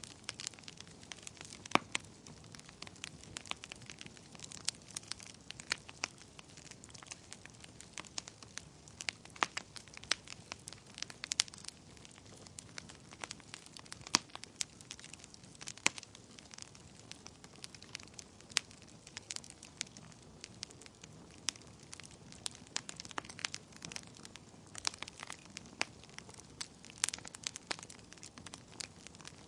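Wood fire burning in a fireplace, crackling with frequent sharp, irregular pops and snaps over a soft, steady hiss.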